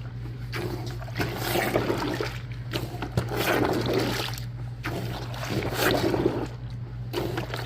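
Handheld laundry plunger (washOTG portable washer) pumped up and down in a bucket of soapy water and clothes, the water swishing and sloshing in a swell about every two seconds.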